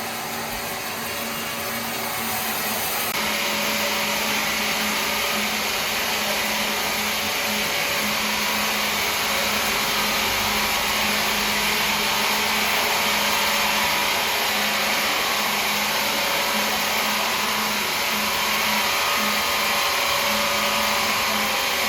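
A woodworking machine running steadily, a loud continuous rush over a constant hum. About three seconds in the sound abruptly turns brighter and harsher.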